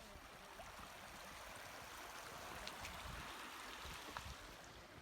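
Faint steady rushing of a shallow canyon river flowing, with a few light ticks.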